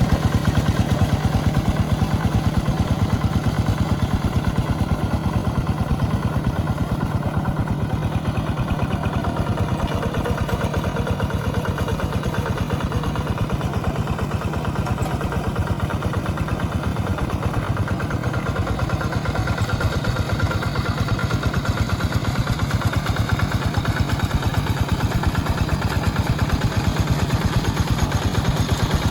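Tractor engine running steadily at an even speed, a continuous rapid chugging with no pauses or changes in pitch.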